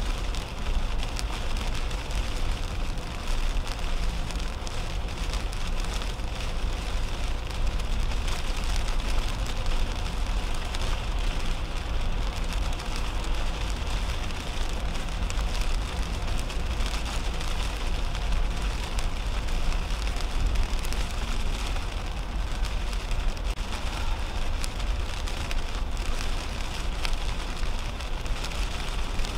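Heavy rain hitting a car's windshield and roof as a steady patter of drop strikes over a low, constant rumble of tyres on the wet highway, heard from inside the cabin.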